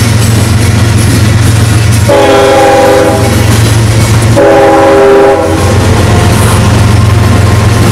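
A diesel freight train's locomotives passing close by with engines running and wheels clattering over the track. The lead GE ES44AC sounds its multi-tone chord horn twice, about two seconds in: a long blast, a short break, then a shorter blast.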